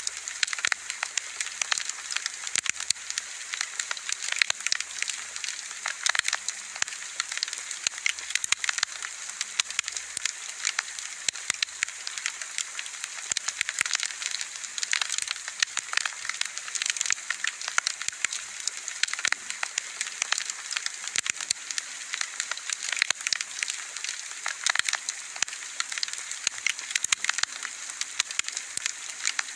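Wood fire burning, with steady hiss and dense, irregular crackles and pops.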